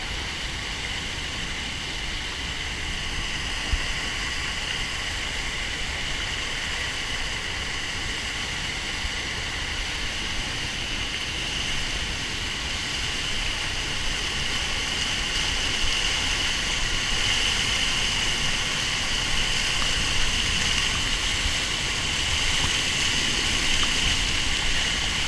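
Steady rush of a waterfall heard from close by, a continuous roar of falling water that grows slowly louder.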